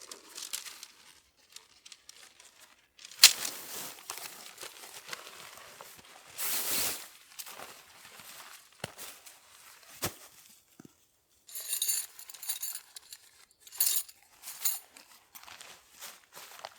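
Camping gear being handled by hand: rustling, crinkling fabric or packaging and short swishes, with a run of light metallic clinks and jingles about two-thirds of the way through.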